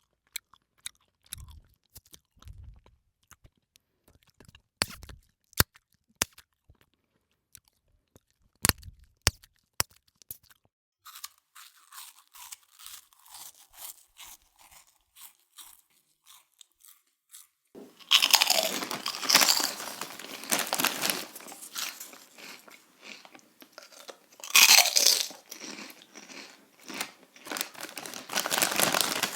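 Close-up eating sounds: scattered small clicks and soft chewing at first, then loud crunching as crunchy food is bitten and chewed, starting about 18 seconds in and again about 24 seconds in.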